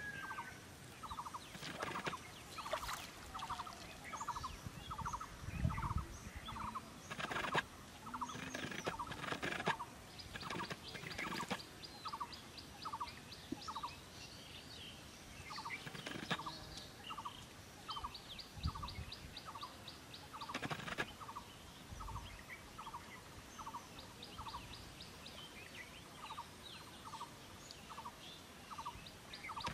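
A bird calling: a short note repeated about twice a second in runs with brief pauses, joined at times by a faster, higher trill, with a few soft clicks now and then.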